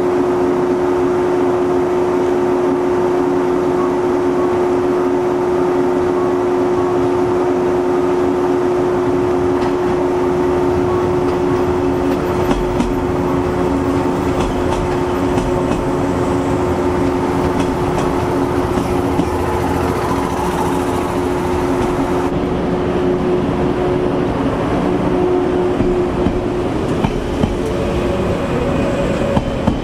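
A 381-series Yakumo limited express electric train rolling into a station and slowing to a stop, its wheels rumbling on the rails. A steady electric hum runs underneath and changes a little near the end, when the train has halted.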